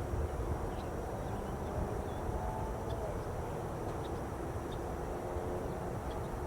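Jet airliner engines heard at a distance: a steady rumble with a faint whine running through it. A few faint, short bird chirps sit above it.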